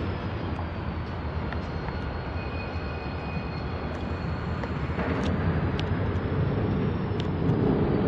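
A train rumbling on the track: a steady low noise with a few sharp clicks.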